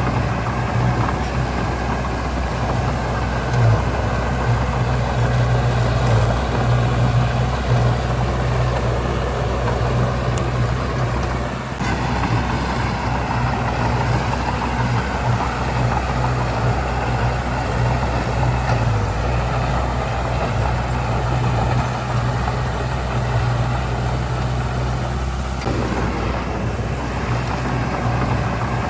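Heavy diesel earthmoving machinery running continuously, a steady engine drone with a brief dip about twelve seconds in.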